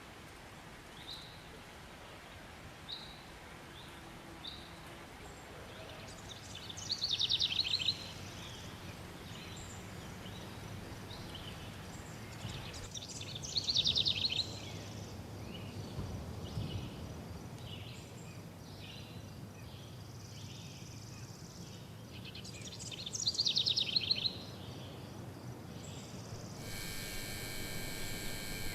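Recorded nature soundscape with birdsong: a fast trilling phrase comes three times, several seconds apart, with short chirps between them over a steady low rumble.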